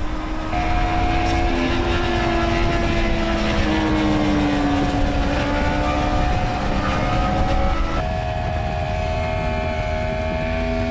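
Inline-four superbike engine running steadily, its pitch drifting slowly up and down. About eight seconds in the sound changes abruptly, as at a cut to another run.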